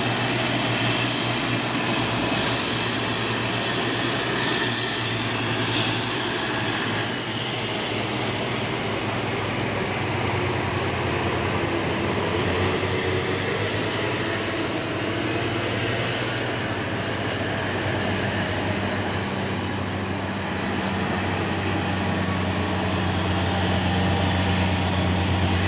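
Heavy diesel truck engines running steadily under load, with a thin high whine that wavers in pitch above them.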